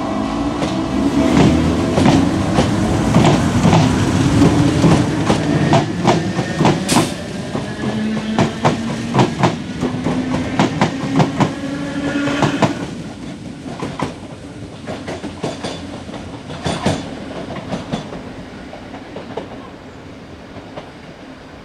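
DART electric multiple unit running over jointed rail: quick clicks as the wheels cross the rail joints, over a rising whine. About two-thirds of the way through the clatter drops off, and a few fainter clicks follow as the train draws away.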